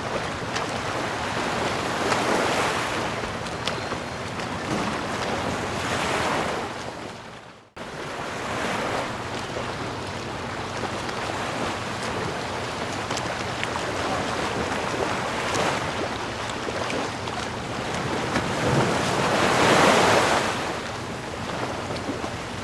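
Sea waves washing onto the shore in a steady surf, swelling and easing, loudest about two, six and twenty seconds in. The sound fades out almost completely and comes straight back just before eight seconds in.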